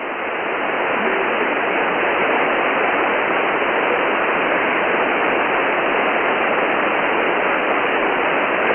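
Shortwave receiver static on the 10 m amateur band: a steady even hiss heard through a narrow single-sideband passband, swelling up over the first second and then holding level.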